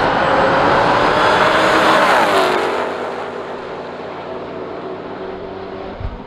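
A high-powered car at full throttle passing by, its engine pitch dropping as it goes past, then fading away. A brief low thump near the end.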